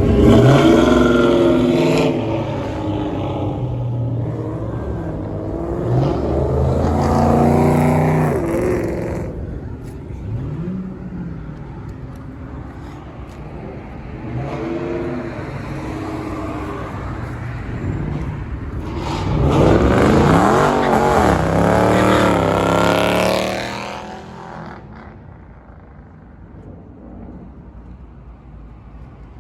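Car engines revving hard as cars drive past, in several surges of rising and falling engine pitch. The loudest comes about two-thirds of the way through, and it is quieter after that.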